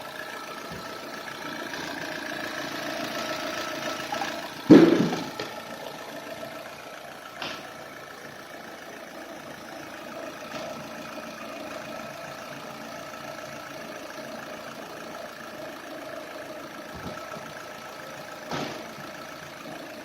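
Opel Meriva's 1.6-litre Z16XEP four-cylinder petrol engine idling steadily. A loud thump comes about five seconds in, and two fainter knocks follow later.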